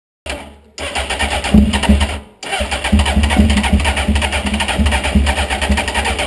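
Honda CBR900RR inline-four motorcycle engine starting and running in short takes, the sound cutting off abruptly twice between them.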